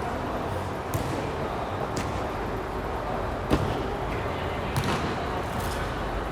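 About five short, sharp thumps spaced irregularly over a steady background noise, with the strongest about three and a half seconds in.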